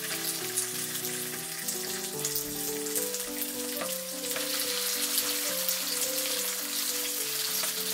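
Chicken pieces sizzling steadily in hot sunflower oil in a frying pan, just after going in, with gentle background music.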